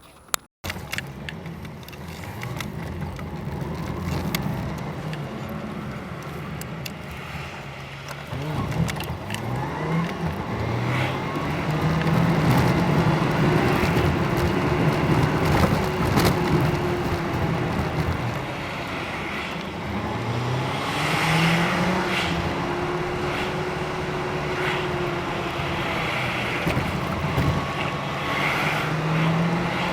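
A motor running, its pitch rising and falling again and again, with a steady noisy bed beneath it.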